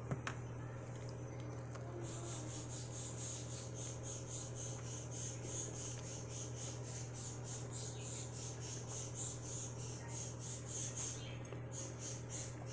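A person chewing a bite of a burrito whose flour tortilla was toasted on a comal: rhythmic, scratchy chewing that starts about two seconds in and pauses briefly near the end. A steady low hum sits underneath.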